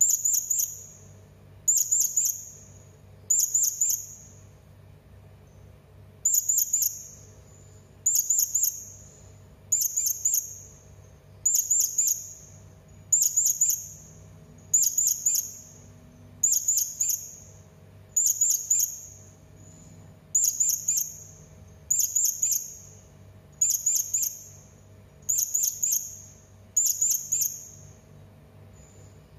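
Serindit (hanging parrot) calling: shrill, high-pitched bursts, each a quick cluster of sharp notes, repeated steadily about every second and a half. A faint low hum runs underneath.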